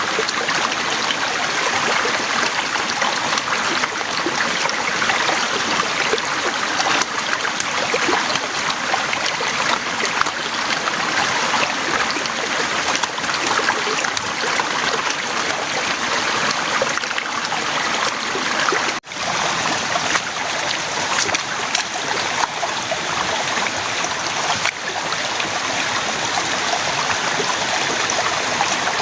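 Heavy rain pouring steadily, a dense hiss of countless drops, with a momentary break about two-thirds of the way through.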